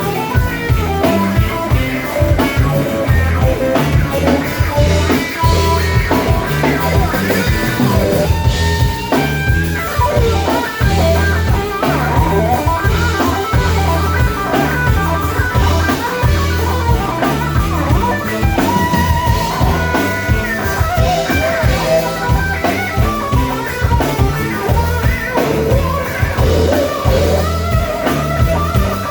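Live blues-rock band playing an instrumental passage: electric guitar lead over bass and a drum kit keeping a steady beat.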